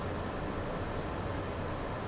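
Steady cockpit noise of a Beechcraft Premier I jet during its climb: the even drone of its two rear-mounted Williams FJ44 turbofans and the rush of air over the airframe, with a constant low hum underneath.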